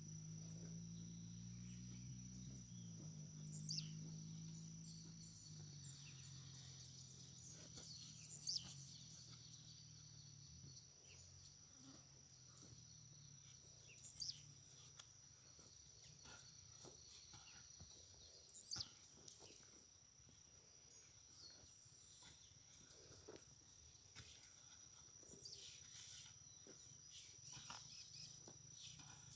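Faint rural ambience: a steady, high insect drone with a short, falling bird call about every five seconds. A low hum in the first few seconds fades away.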